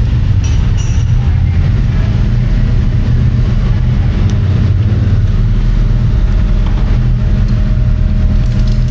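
Engine running with a steady low rumble and a constant hum.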